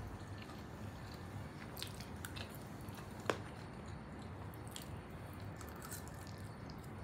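Quiet chewing and wet mouth sounds of people eating saucy chilli potato, with a few light clicks of forks on plates; the sharpest click comes a little over three seconds in.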